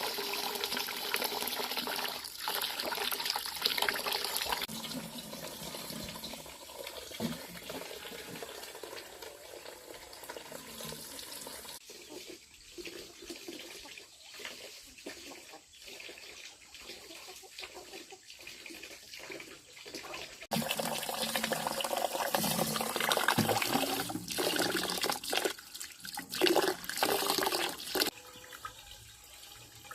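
Running water pouring and splashing, changing suddenly in loudness about twelve and twenty seconds in.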